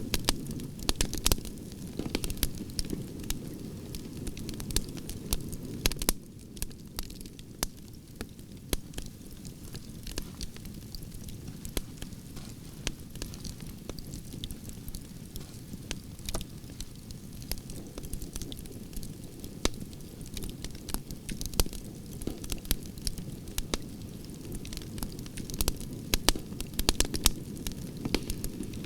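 Campfire of burning branches crackling and popping: many sharp snaps scattered over a steady low rush of the flames, busier at the start and near the end.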